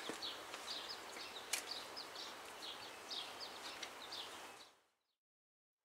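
Small birds chirping over faint outdoor background noise, with a light click or two; the sound fades out to dead silence near the end.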